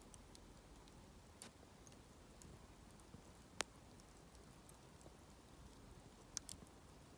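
Hardwood campfire crackling faintly, with scattered sharp pops: a loud one about three and a half seconds in and a small cluster near the end.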